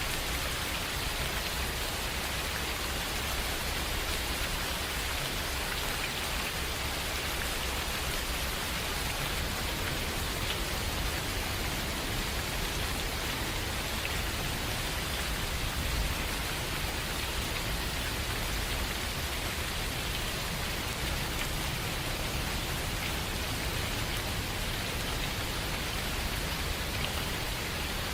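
Steady rain falling in a forest, an even hiss of drops on leaves and ground, with a faint low rumble underneath.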